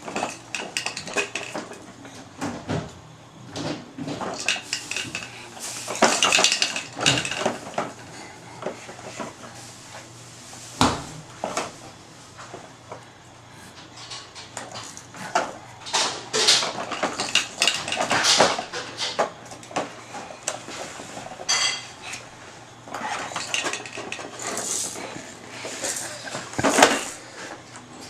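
Irregular clattering and knocking of hard objects, in uneven clusters, with one short high-pitched squeak about three-quarters of the way through.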